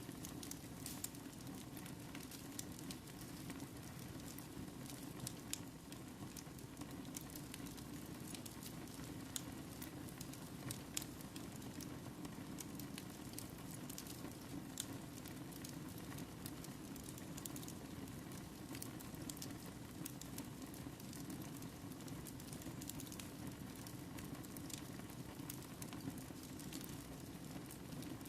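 Wood fire crackling: a steady low rush of flames with irregular sharp pops and snaps of burning wood scattered throughout.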